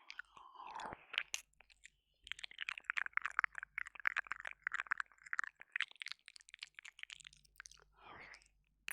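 Close-miked wet mouth sounds of ASMR ear licking and ear eating: a dense run of small wet clicks and smacks from about two seconds in, with a short breathy sound near the end.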